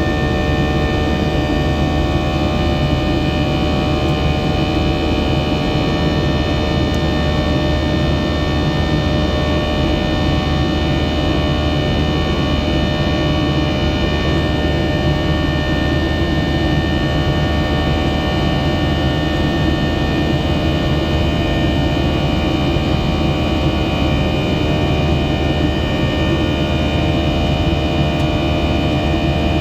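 Boeing 737-700's CFM56-7B turbofan engines heard from inside the cabin at high thrust after takeoff: a steady, loud rush with several steady whining tones over it.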